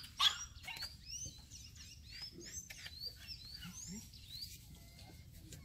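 Small birds chirping repeatedly in the background, many short high chirps, with one short sharp sound about a quarter second in.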